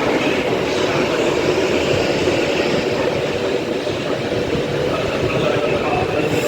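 Train running at the station: a steady rumble of wheels and running gear with a constant whine.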